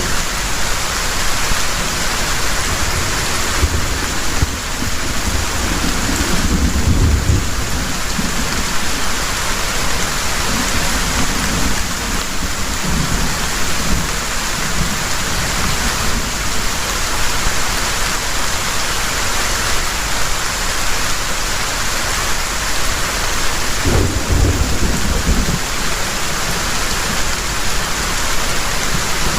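Heavy rain falling steadily in an even hiss, with low rolls of thunder, the strongest about seven seconds in and again about twenty-four seconds in.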